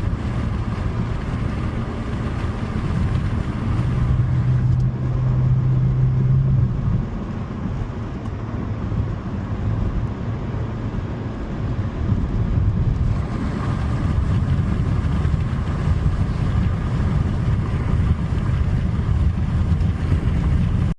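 Toyota Sprinter Trueno's 4A-GE 20-valve inline-four engine running while the car is driven, with road noise. The engine note rises and is loudest about four to seven seconds in, then eases off and carries on steadily.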